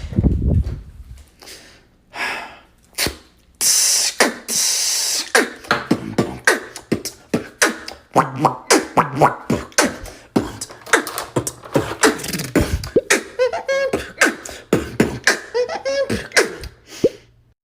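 Solo vocal beatboxing: a deep bass boom at the start, a long hiss about four seconds in, then a fast run of sharp mouth-made kick and snare clicks, with short pitched vocal sounds woven in near the end.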